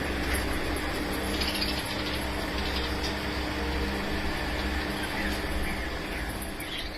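Chirping from a roomful of breeding cage birds, scattered short calls over a steady low hum.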